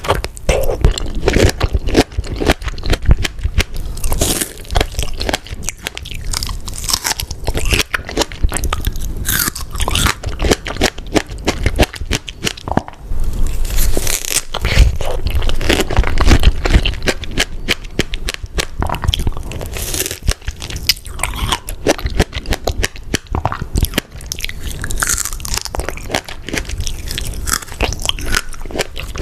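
Close-miked eating of fresh strawberries dipped in Nutella and whipped cream: repeated bites and wet chewing, with dense, irregular crunches and smacks throughout.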